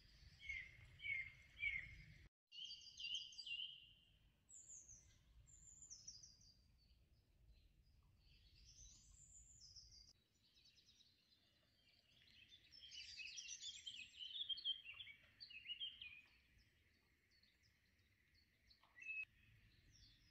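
Faint songbirds calling and singing: short chirps and song phrases throughout, with a denser stretch of song about 12 to 16 seconds in. The sound drops out for a moment after about two seconds.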